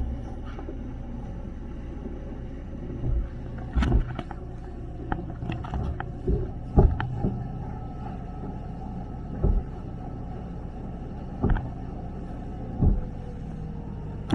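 Motorboat engine running steadily, with a dozen or so irregular sharp thumps over it, the loudest about seven seconds in.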